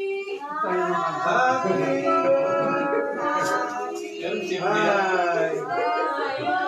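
Several people singing together, with long held notes.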